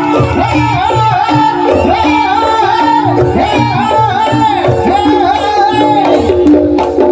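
Live Javanese jaranan music: kendang hand-drumming under a wavering, arching melody line, with sustained gong-chime tones.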